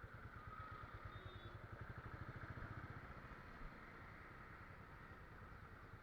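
Motorcycle engine running steadily, heard faintly as a fast, even low pulsing.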